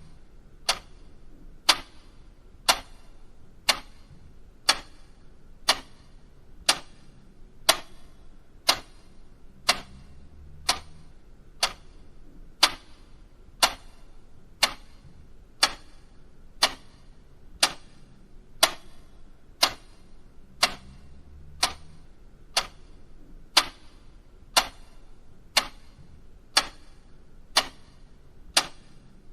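Mechanical clock ticking steadily, about one tick a second, each a sharp click. A faint low hum lies underneath.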